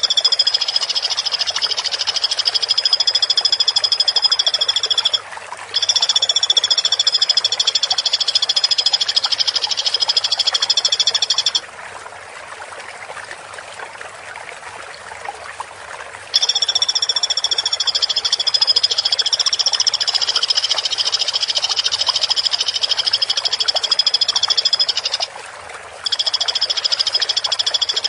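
Woodpecker giving long, dense, high trills, each held for several seconds. They break off twice briefly and once for about five seconds near the middle, leaving a steady background hiss.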